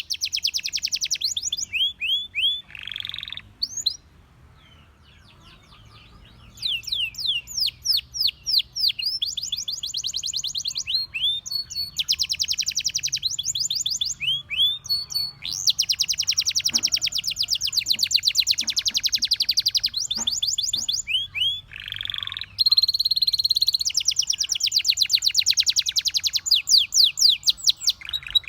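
Canary singing a long song of rapid trills and rolls, fast runs of repeated high notes and quick downward-sweeping notes. It breaks off about four seconds in and starts again a couple of seconds later.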